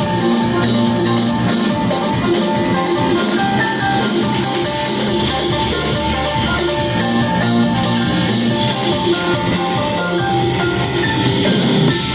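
A live band playing loud, continuous music, with a guitar line over drums and percussion.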